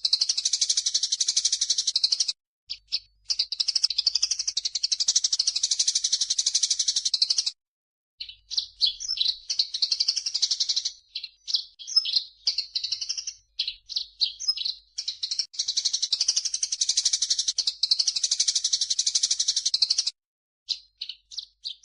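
Recorded bird song from a grey-cheeked bulbul (cucak jenggot) and Eurasian tree sparrow (burung gereja) mix: long runs of fast, high-pitched chattering that alternate with stretches of separate quick, sweeping chirps.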